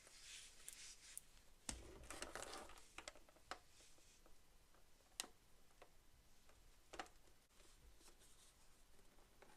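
Faint handling of toys and their packaging: a short rustle about two seconds in, then a few sharp clicks and light taps, the clearest a little past halfway.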